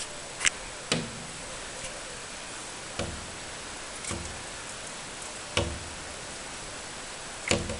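A bird pecking at window glass: about six sharp taps at uneven intervals over a steady hiss. The uploader takes the pecking for the garden birds asking for food.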